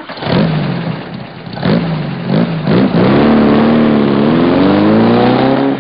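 Car engine revved in several quick blips, then held at high revs with the pitch slowly climbing, easing off near the end.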